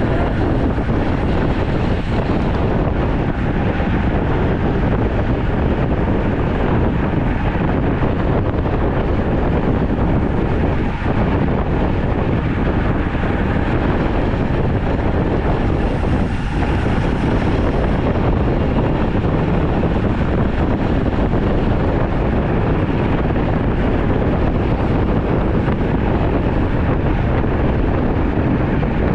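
Steady rush of wind over the microphone of a camera riding along on a road bike, a loud unbroken noise.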